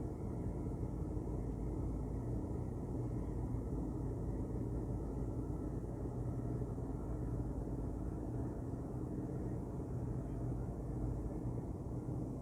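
Ship's engine running steadily: an even, low drone with a constant hum and no changes in speed.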